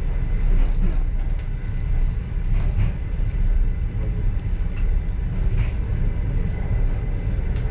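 Passenger railway car rolling along the track, heard from inside the carriage: a steady low rumble with a few faint clicks and knocks.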